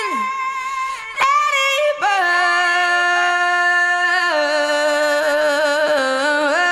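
A cappella female vocal singing long, held, wordless notes with vibrato and no accompaniment. It opens with a falling glide, and there are short breaks for breath about one and two seconds in.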